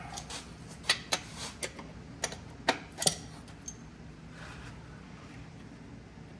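Wrench and hand tools clicking and clinking against metal under the car, about eight sharp clicks in the first three seconds.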